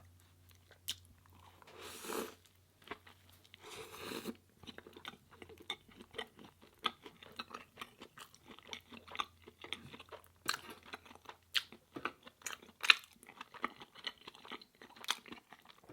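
Close-miked chewing and biting of a vegan burger and fries, with many small wet mouth clicks and crunches. Two longer, noisier sounds come about two and four seconds in.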